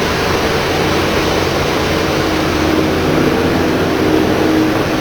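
Steady mechanical drone with a low hum and a few held tones, unchanging throughout.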